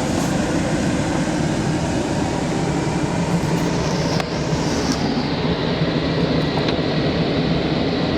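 Steady running noise in the cab of a stationary 2004 Dodge Ram 1500 with its 5.7-liter Hemi V8 idling, a low even hum under a broad hiss.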